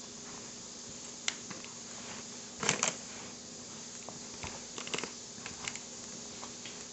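Dumpling filling of ground pork, cabbage, onion and carrot being mixed in a bowl: scattered soft clicks and rustles, loudest in a short burst nearly three seconds in, over a faint steady hum.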